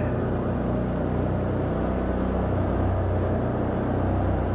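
Can-Am Outlander ATV engine running at a steady pace while riding along the trail, a constant low drone.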